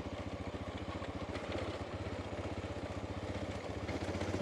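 Honda Dominator's single-cylinder four-stroke engine running at low revs, a steady, even thumping of about ten beats a second.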